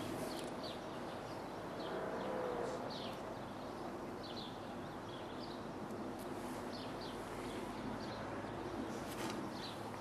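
Small birds chirping, short high calls coming every second or so, over a steady low background rumble.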